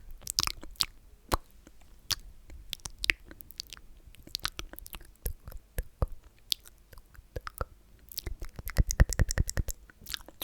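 Close-miked ASMR mouth sounds: sticky, wet clicks and smacks of lips and tongue at an irregular pace. They crowd into a quick run about eight to nine and a half seconds in.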